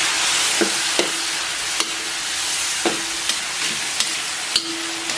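Sliced pork belly stir-frying in a hot pan with a steady sizzle, the spatula clicking and scraping against the pan about once a second as it is tossed.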